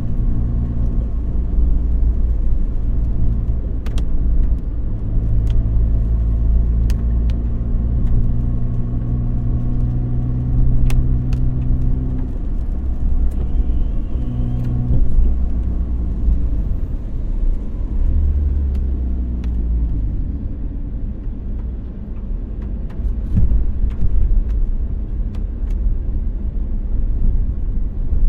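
A car being driven: a steady low engine hum and road rumble. The engine note shifts about halfway through and falls in pitch about two-thirds of the way in. A few sharp ticks are scattered through it.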